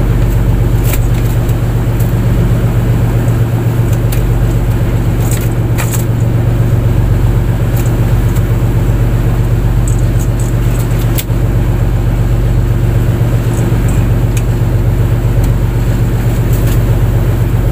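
A fishing boat's engine running steadily at a constant speed, a loud low drone with a few short sharp clicks over it.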